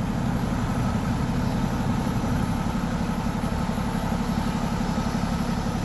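Vehicle engine idling steadily: a low, even rumble that pulses rapidly.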